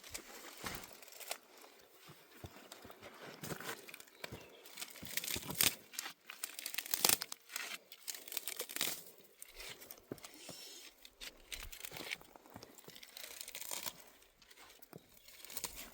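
Dry plant stems rustling, crackling and tearing in irregular bursts as they are handled, loudest through the middle.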